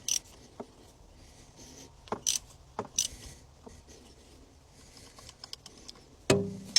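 Scattered metallic clicks and scrapes of a spanner working a stuck battery terminal bolt on an old bulldozer, with a louder knock and a brief ring near the end.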